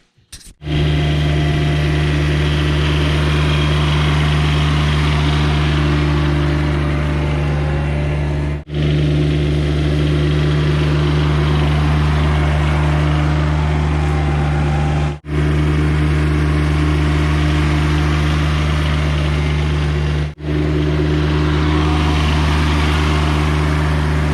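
John Deere X595 lawn tractor's diesel engine running steadily, in several joined clips with brief breaks between them.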